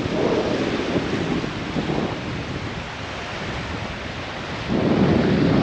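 Sea waves washing on a sandy shore, with wind rumbling on the microphone; the rush swells up near the end.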